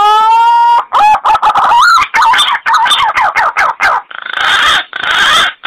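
Green pigeon (punai) calls played as a hunting lure. A long whistled note rises and levels off, then comes a quick run of warbling, wavering notes, and near the end three harsh, rasping notes.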